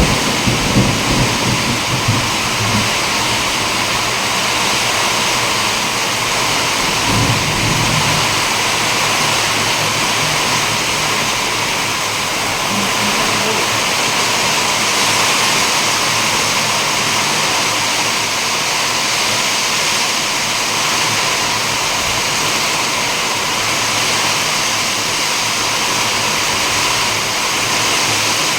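Heavy rain pouring down in strong wind, a steady dense hiss. Low rumbles swell over it in the first few seconds and again about seven seconds in.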